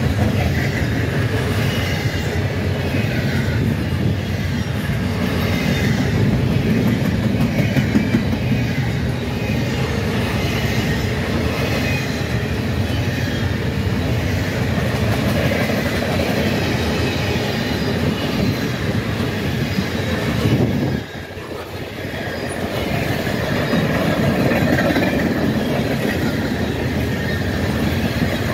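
Freight train cars rolling past close by, double-stack container cars and then boxcars: a steady, loud rumble of steel wheels on the rails with clickety-clack over the joints. The noise dips briefly about two-thirds of the way through, then picks up again.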